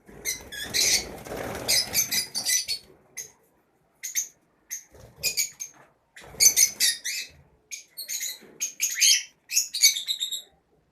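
Lovebirds chirping in quick clusters of short, shrill calls, with a rustle of flapping wings in the first two seconds.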